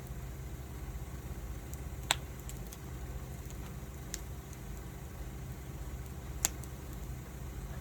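Wood fire burning, with scattered sharp crackles and pops, two louder ones about two seconds in and near the end, over a low steady rumble.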